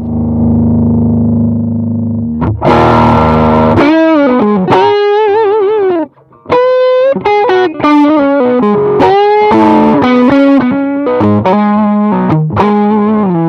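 Electric guitar played through a 68 Pedals Inca Kola, a Zendrive-clone overdrive pedal: a held chord ringing out, then a strum and a lead line of single notes with vibrato and bends, broken by a brief stop about six seconds in.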